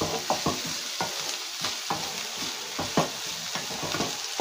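Chopped onions, green chillies and ginger sizzling in a non-stick kadai as a wooden spatula stirs them: a steady frying hiss with short knocks and scrapes of the spatula on the pan, about three a second. The onions are being sautéed until they turn brown.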